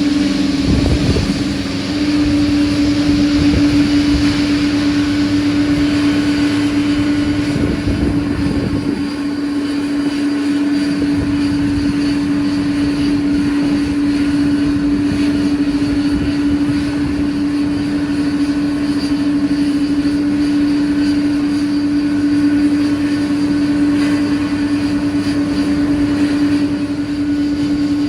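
Airliner engines running with a steady droning hum, with short bursts of low rumble about a second in and again around eight seconds in.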